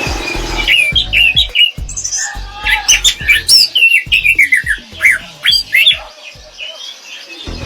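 Orange-headed thrush singing a long continuous song of rapid whistled notes sliding up and down, thinning out near the end.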